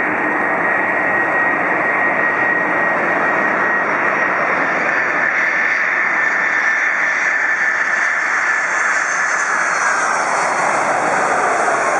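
Boeing 747-400 freighter's jet engines running with a steady roar. A thin whine on top slowly falls in pitch, dropping faster near the end.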